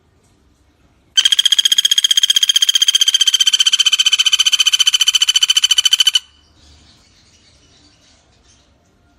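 Common flameback woodpecker (pelatuk bawang) giving a loud, rapid, even rattling call at a steady pitch, lasting about five seconds from about a second in.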